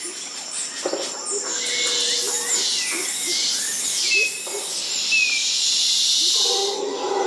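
Jungle ambience: short bird chirps and whistles over a steady high hiss of insects, with small repeated low animal calls. About six and a half seconds in, a lower, drawn-out animal call begins.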